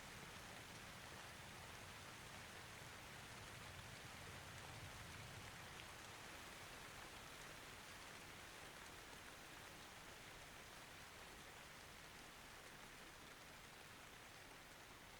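Light, steady rain falling, a soft even patter without thunder.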